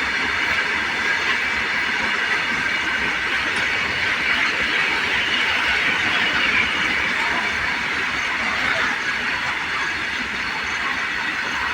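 A train running past on the track: a steady, loud rolling noise of wheels on rail.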